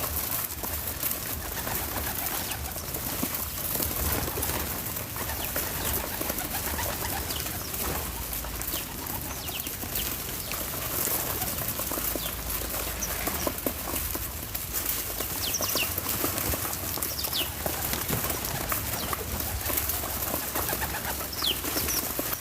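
Backyard birds calling: a few short, high chirps scattered through, over a steady outdoor hiss.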